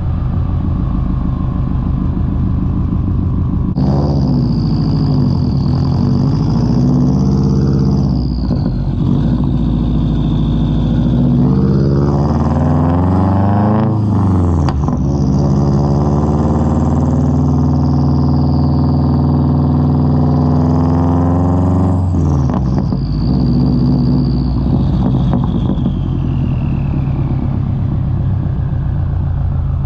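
Subaru WRX's turbocharged flat-four running through a Tomei straight-pipe exhaust while driving. The engine pitch rises under acceleration and drops sharply at gear changes, holds steady while cruising, then falls away near the end as the car slows.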